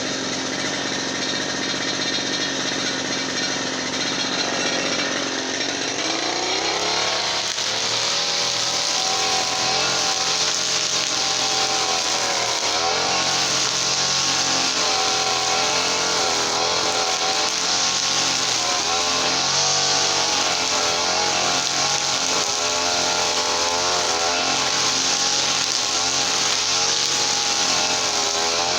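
Small two-stroke brush cutter engine running at a low steady speed, then revving up about six seconds in and running fast, its pitch wavering up and down as the throttle varies.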